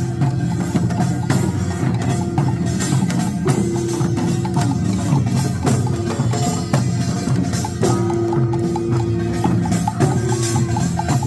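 Pungmul band playing: Korean drums and gongs beating a dense, steady rhythm.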